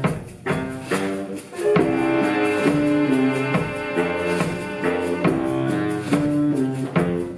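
Instrumental passage of live ensemble music: pitched instruments playing a moving line of held notes over regular percussion strikes, with no singing.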